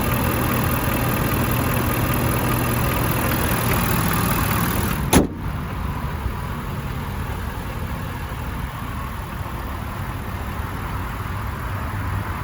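Ford F-350's 6.7-litre Power Stroke V8 turbo diesel idling steadily. About five seconds in there is a single loud slam, after which the idle sounds quieter and more muffled.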